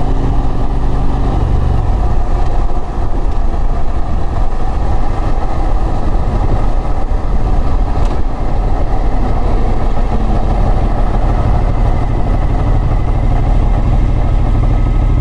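Motorbike engine running while riding, with a dense low rumble of engine and wind noise on the microphone; steady engine tones in the first second or so give way to the louder rumble.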